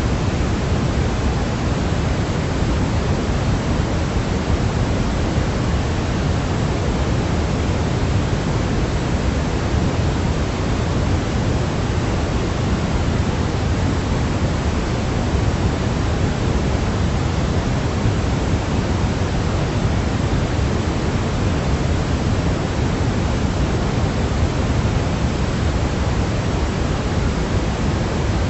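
Steady white noise for baby sleep: an even, unbroken hiss, heavier in the low end than the top.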